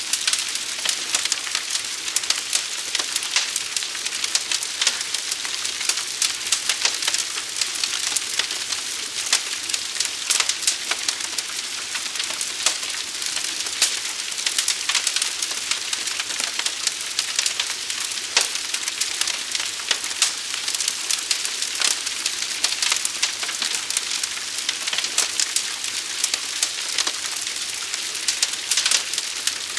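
Forest fire burning: a steady hiss packed with rapid, sharp crackles and snaps.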